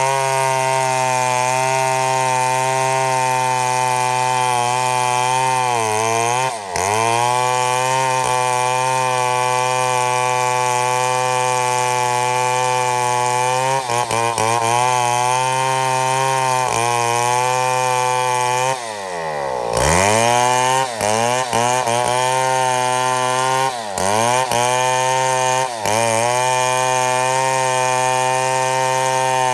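Chainsaw running at high, steady revs while milling a mahogany log. The engine speed dips briefly a few times, most deeply about two-thirds of the way through, then climbs back.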